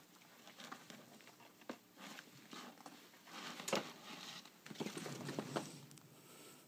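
A cat playing: paws pattering, tapping and scuffing on the floor in irregular bursts. A louder scramble runs from about halfway through, with one sharp knock at its start.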